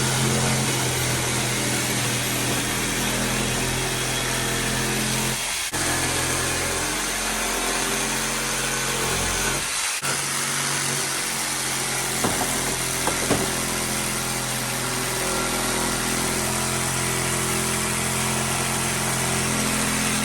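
A motor running steadily with a loud hiss and a steady low hum, briefly dropping out about six and ten seconds in.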